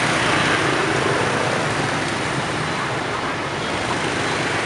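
Dense motorbike and scooter traffic: a steady mix of many small engines and tyre noise.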